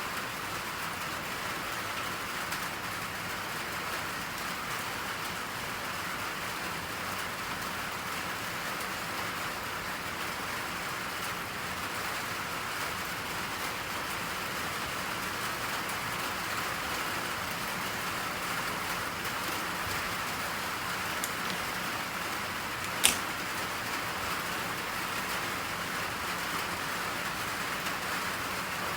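Steady rain falling, an even hiss. One sharp click stands out about three-quarters of the way through, with a fainter one just before it.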